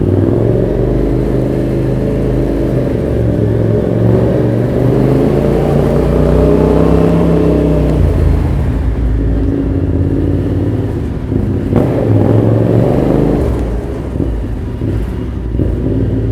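Yamaha Ténéré 700's 689 cc parallel-twin engine running through an Arrow full exhaust system while riding, its note rising and falling as it speeds up and eases off, with a second rise a little past the middle.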